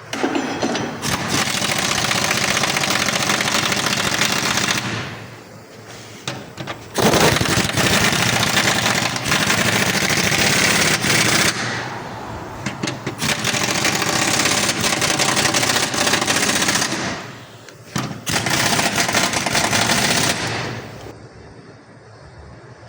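Car rattling and clattering rapidly over a rough road, in four long stretches with quieter gaps between: the bumpy-road noise the owner is trying to trace.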